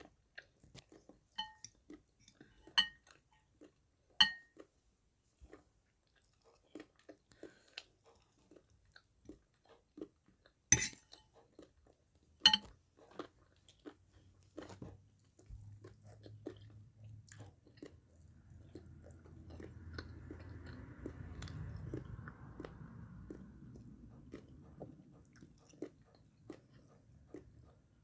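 A person chewing stir-fried pig ear mushrooms, a chewy food, with the mouth close to the microphone. Scattered sharp mouth clicks come first, a few of them much louder, and from about halfway the sound turns into a steadier low chewing rumble.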